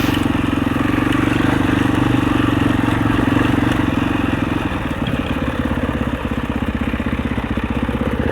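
Husaberg 650 four-stroke dirt bike engine running at low revs, its firing pulses coming through as an even, rapid beat, easing off a little about halfway through.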